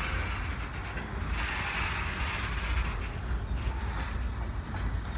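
Loaded freight flatcars rolling past, steel wheels running on the rails with a steady low rumble and a rushing, grinding noise that swells about a second and a half in.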